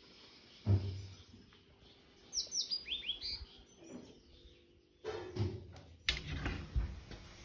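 A small bird calling: a quick run of about six short chirps, each dropping in pitch, a couple of seconds in. A single thump comes under a second in, and knocks and clattering fill the last couple of seconds.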